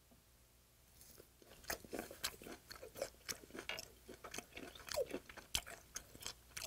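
Close-up chewing of raw yellow stingray wing sashimi. After about a second of quiet, a steady run of wet chewing with many small crunches from the cartilage in the firm, chewy flesh.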